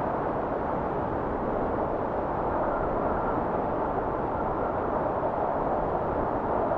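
Steady rush of blizzard wind: a dense, even, muffled noise with little high hiss and no gusts or breaks.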